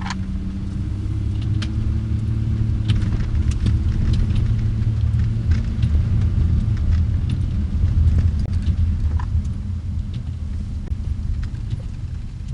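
Car driving along a road: a steady low rumble of engine and tyres, with scattered small clicks and rattles.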